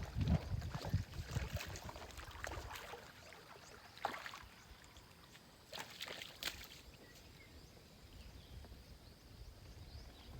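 Scattered knocks and clicks over a faint outdoor background, with heavier low thumps in the first second.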